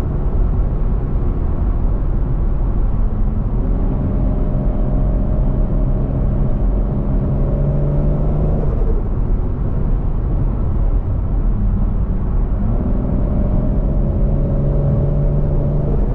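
Swapped 1JZ-GTE VVT-i turbocharged inline-six in a Scion FR-S running under load. The engine note climbs slowly, drops about nine seconds in, then climbs again toward the end.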